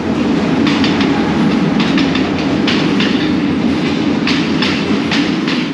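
Diesel express train running into the station, a heavy steady rumble with irregular clacks of its wheels over the rail joints.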